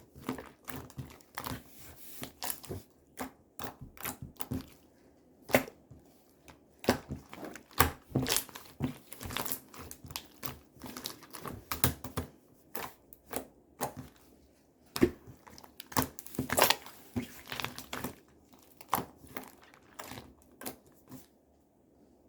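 Irregular sharp clicks and crinkling crackles, coming in uneven clusters, stopping about a second before the end.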